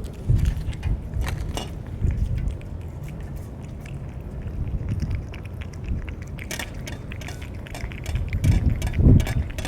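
Stray cats eating, crunching dry cat food in a run of quick, irregular clicks and crackles, over an uneven low rumble that grows louder near the end.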